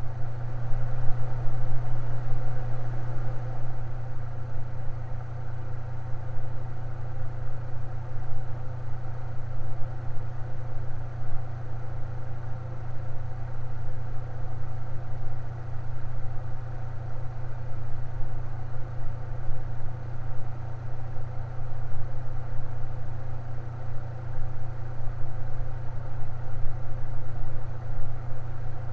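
Electric fan running steadily: a low hum with an even, fluttering whir.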